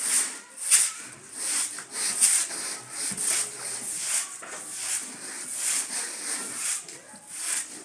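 A wet carpet being scrubbed by hand in repeated rubbing strokes, about three every two seconds.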